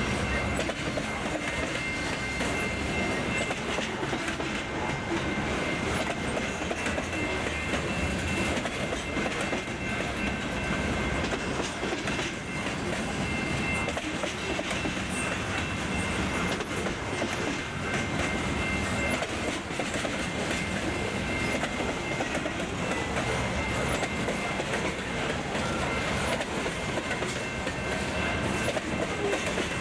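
Freight train cars rolling past, a steady rumbling clatter of wheels on rails, with a faint thin high-pitched ringing that comes and goes.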